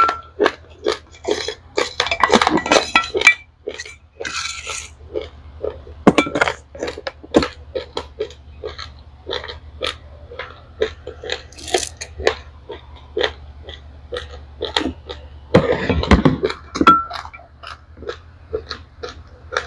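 Close-up crunching and chewing of dry-roasted raw rice grains, a rapid run of sharp crunches about two to three a second, with two longer, denser crunching stretches, one near the start and one about three-quarters of the way through.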